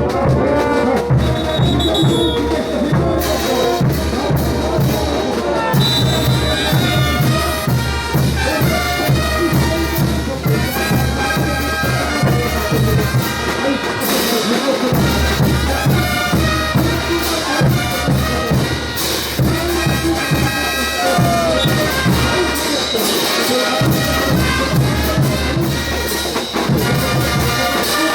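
Bolivian brass band playing a ch'uta dance tune: trumpets and trombones over a steady low drum beat, which drops out briefly about halfway through and again near the end.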